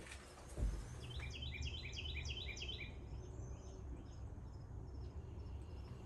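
A bird sings a quick run of about ten short, high, repeated chirps, starting about a second in and lasting about two seconds. Under it is a steady low background rumble, with a single soft thump just before the song.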